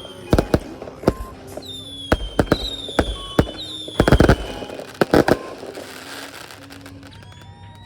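Fireworks going off: irregular sharp bangs, a quick cluster of them about four seconds in, with high whistles that slide slowly downward in the first half.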